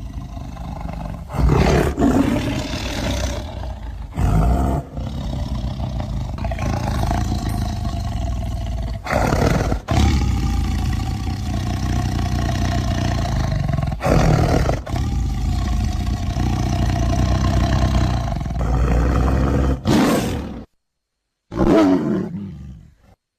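Tiger roaring and growling: a run of loud roars, each starting suddenly every few seconds, joined by held growls. Near the end the sound cuts out briefly, then one last roar fades away.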